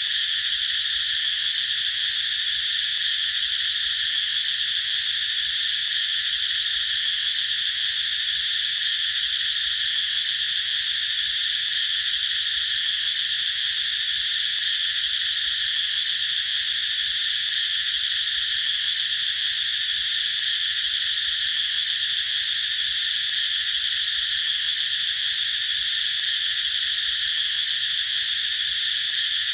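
Cicadas singing in a continuous chorus: a steady, high-pitched drone that does not let up.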